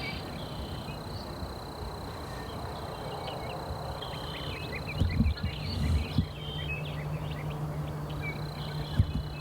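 Small songbirds chirping in quick, scattered notes over outdoor ambience, busiest in the middle, with a few dull low thumps about five to six seconds in and a low steady hum that starts just after.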